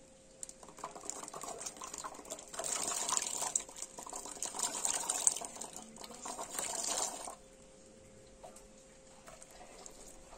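Water being poured and splashing, with light knocks, stopping abruptly about seven seconds in.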